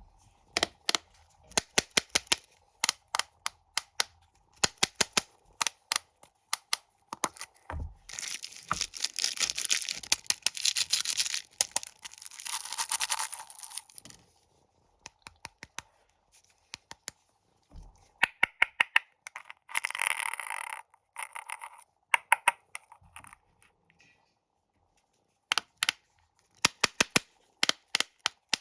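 Plastic snack wrappers crinkling in sharp crackles and being torn open, with longer stretches of tearing about a third of the way in and again about two-thirds in.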